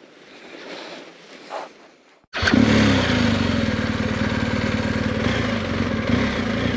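Faint outdoor hiss, then, cutting in abruptly about two seconds in, a BMW R1250 GS Adventure's boxer-twin engine idling steadily in neutral.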